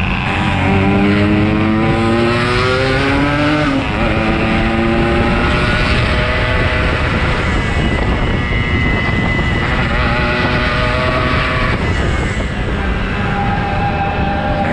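Yamaha RX-King two-stroke motorcycle engine accelerating on the road, its pitch climbing and then dropping back at each gear change, several times.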